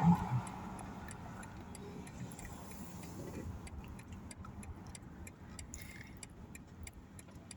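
Car turn-signal indicator clicking steadily, about two to three clicks a second, over low road and engine noise inside the car's cabin.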